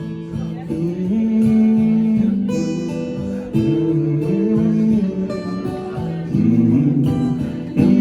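Acoustic guitar playing an instrumental passage of a song, with chords ringing and changing every second or so.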